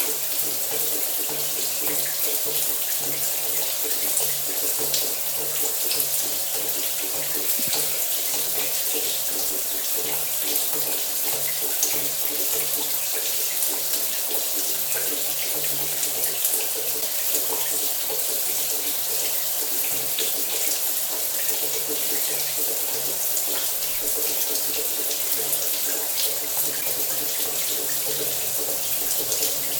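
Shower running steadily: an even hiss of water spraying and splashing, with fine spattering throughout.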